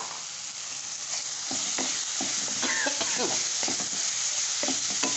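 Onion-tomato masala with turmeric sizzling in oil in a non-stick pan as it is fried down (bhuna). A wooden spatula stirs it, with short scraping strokes against the pan from about a second and a half in.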